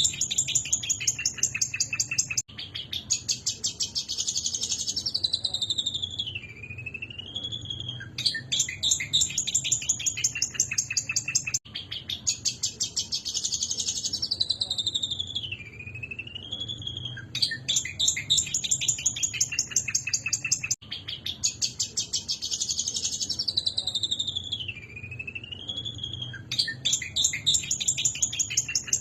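Long-tailed shrike song in repeated phrases, each about nine seconds long: a rapid ticking chatter, then a harsh, scratchy warble, then a wavering whistle that dips and rises. The phrase comes round three times, each the same, as in a looped training track.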